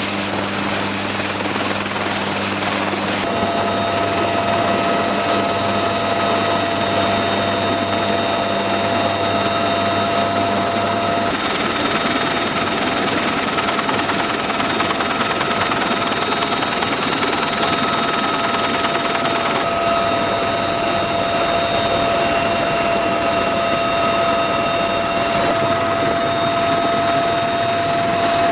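UH-1Y Venom helicopter's twin turboshaft engines and rotor running steadily, with a continuous high turbine whine. The sound changes abruptly a few times.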